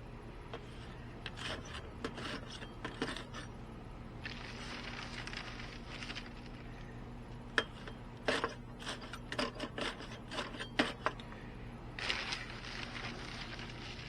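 Rubbing, scraping and knocking of a bee smoker being handled and packed with fuel, in two bunches of clatter, with two stretches of soft hiss between them.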